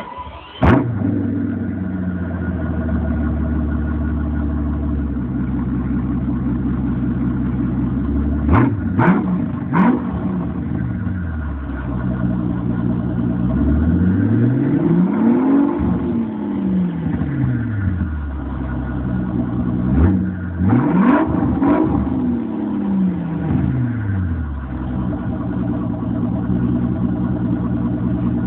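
Mercedes S600 twin-turbo V12 running with its mufflers removed: it starts sharply about half a second in and settles to a steady idle. It is then blipped quickly several times and revved up and back down slowly twice before returning to idle.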